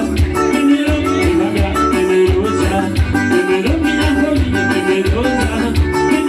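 Forró music playing with a steady, even beat and held melodic notes over it, with no words sung.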